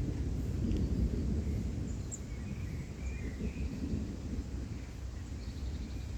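Low rumble of distant rolling thunder that swells about a second in and slowly fades, with a few faint bird chirps over it.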